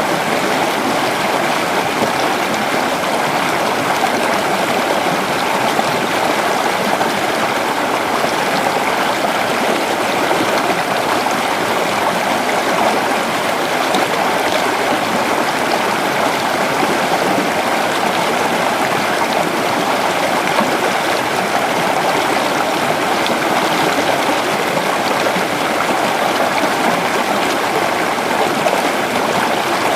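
Creek water flowing over rocks: a steady rushing and burbling.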